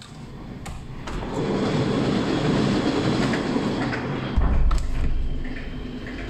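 An LRT train passing on the tracks next to the building. Its rushing rail noise swells about a second in and is loud through the middle, then eases off toward the end, with a heavy low rumble around the fifth second. The noise comes in clearly while the new soundproof window is held open.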